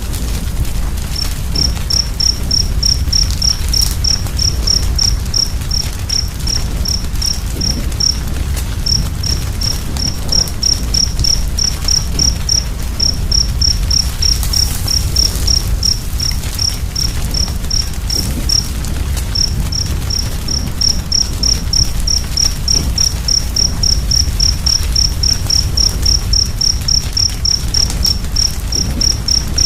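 A cricket chirping steadily at one high pitch, about three chirps a second with a few short breaks. Under it runs the low, steady rumble and faint crackle of a wood fire.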